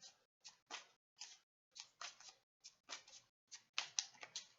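Tarot deck being shuffled and handled by hand: a faint run of short card snaps and rustles, about two to three a second, as cards are mixed to draw clarifier cards.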